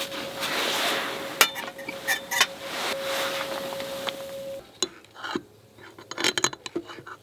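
Metal cookware and utensils clinking and knocking, with a few sharp clinks. A steady hiss with a faint tone underneath stops about four and a half seconds in, and a quick run of knocks follows near the end.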